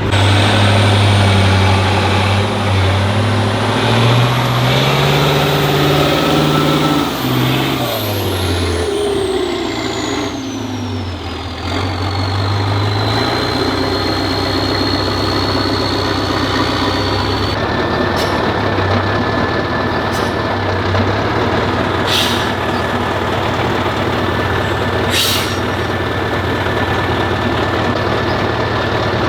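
Heavy off-road trial truck's engine revving up and down under load, then running more steadily from about halfway, with a few short sharp knocks near the end.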